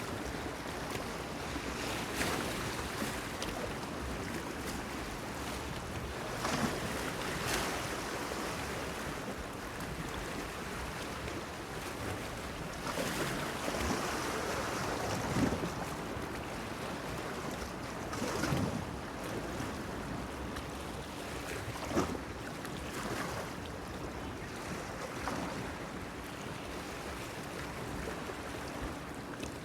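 Small waves lapping and splashing against a pier, over a steady wash of water and light wind. Louder splashes come at irregular intervals, several seconds apart.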